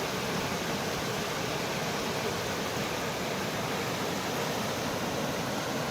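River rapids rushing: a steady, unbroken noise of fast-flowing water.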